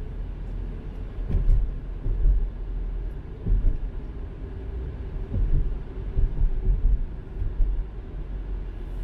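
Road noise of a car being driven, heard from inside: a steady low rumble of tyres and engine that swells unevenly every second or two.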